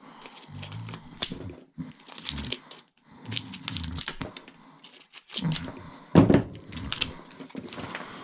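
Small pieces of scrap metal and wire being handled and sorted by hand: irregular clicks, clinks and rustling, with a few heavier knocks, the loudest about six seconds in.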